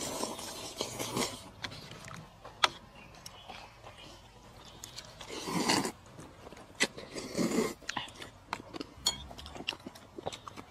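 A person eating, with chewing and biting noises and scattered sharp clicks.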